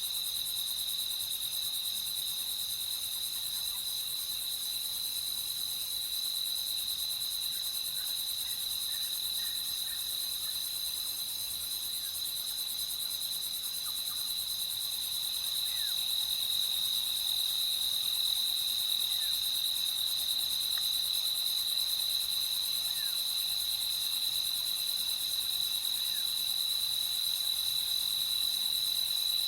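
Crickets chirping in a steady, continuous chorus, with a few faint short calls from other insects or frogs scattered through it.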